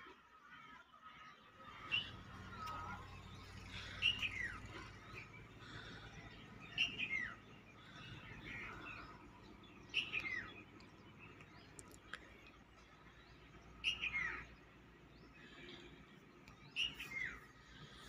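A bird calling over and over, a short call that falls in pitch, about every three seconds, with a low steady hum underneath.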